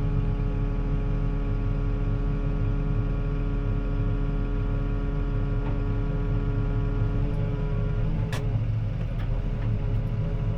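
CLAAS ARION 650 tractor's six-cylinder diesel engine running steadily under load, heard from inside the cab while pulling a disc harrow. A steady hum with several held tones, some of which fade about eight seconds in, followed by one sharp click.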